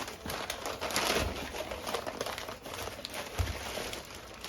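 Crinkling and rustling of packaging being handled, with small clicks and two soft knocks, one about a second in and one near three and a half seconds.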